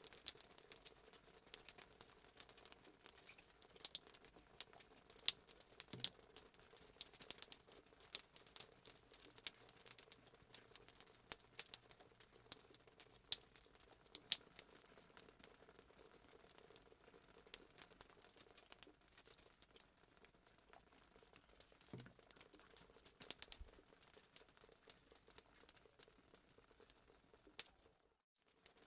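Fireplace sound effect: wood fire crackling with irregular sharp pops and snaps over a faint hiss, cutting out for a moment near the end.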